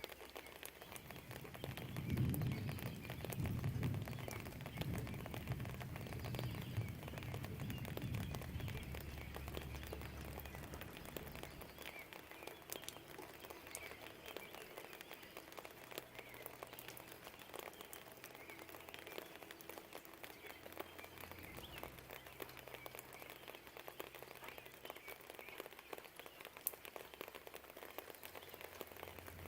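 Steady rain falling, a fine patter of drops throughout. A low rumble swells in about two seconds in, rolls on in waves and fades out after about ten seconds.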